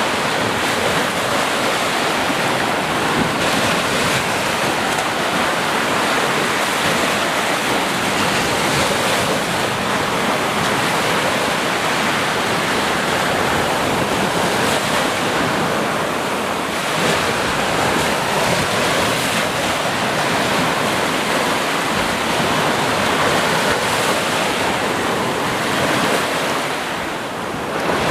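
Sea waves breaking on a shore: a continuous dense wash of surf with gentle swells in strength, easing briefly near the end.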